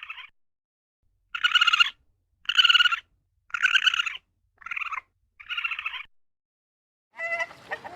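Red panda calling: a string of short, high calls of about half a second each, six in a row with brief pauses between them.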